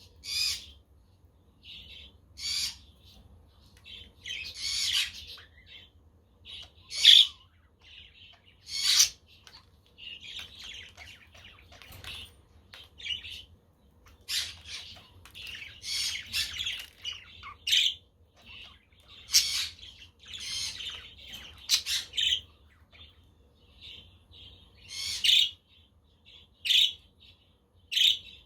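Pet budgerigars chirping and chattering in short, overlapping bursts, with several louder, sharper calls scattered through.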